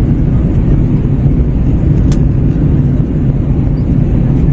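Steady roar of engine and airflow noise inside an Airbus A321 cabin during descent, heavy in the low end. A single short click about two seconds in.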